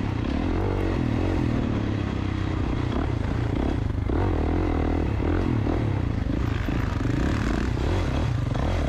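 KTM two-stroke dirt bike engine revving up and down as the rider works the throttle, its pitch rising and falling over and over.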